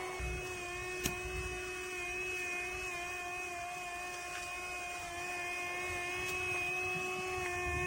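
Small electric motor of a remote-control toy vehicle running with a steady whine. There is a single click about a second in.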